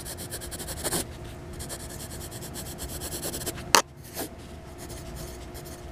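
Pencil scratching on paper in quick, dense strokes, as in writing a signature under a finished drawing. A sharp tap comes near four seconds in, and the scratching is fainter afterwards.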